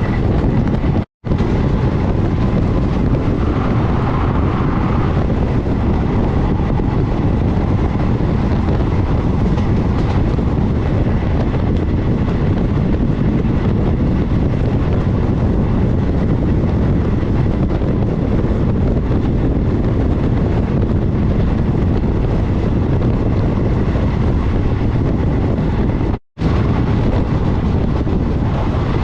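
Passenger train running at speed, a loud steady rumble with wind buffeting the microphone. The sound cuts out completely for a moment twice, about a second in and near the end.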